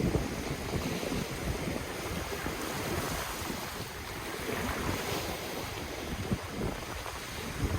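Ocean surf washing in continuously, with wind buffeting the microphone in low, irregular rumbling gusts.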